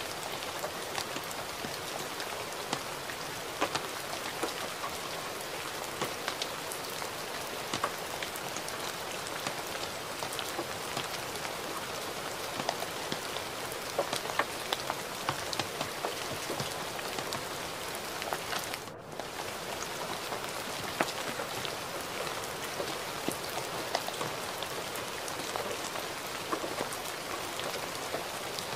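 Gentle rain falling steadily, with many individual drops ticking close by. About two-thirds of the way through it dips out for a split second.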